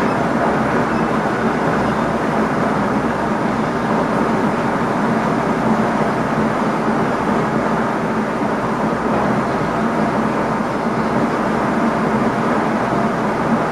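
Steady running noise inside the driving cab of an NS ICM (Koploper) electric multiple unit: wheels rolling on the rails under a low, even hum.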